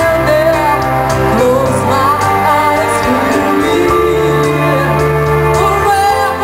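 Live band playing a pop ballad with a woman singing the melody over sustained chords and a steady bass.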